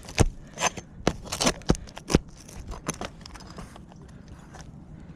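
A metal roof snake prying and scraping under 3-tab asphalt shingles to reach the nails: a quick run of sharp knocks and scrapes over the first two seconds, then a few lighter scrapes, dying down about halfway through.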